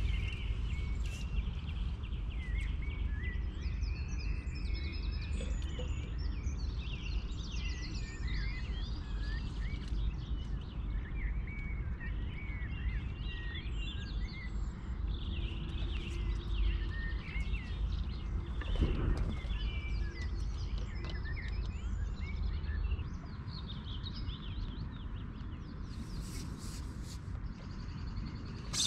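Several birds singing and chirping in short, overlapping phrases over a low steady rumble. The rumble eases about two-thirds of the way through.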